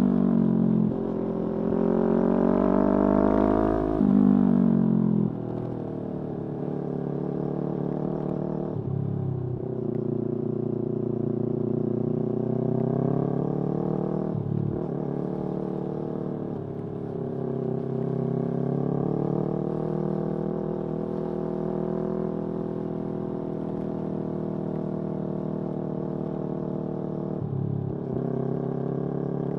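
Yamaha R3's parallel-twin engine under way. The revs climb through the gears, with a brief dip and drop in pitch at each of several upshifts. It is louder at hard acceleration in the first few seconds, then runs at a steadier, lighter pull.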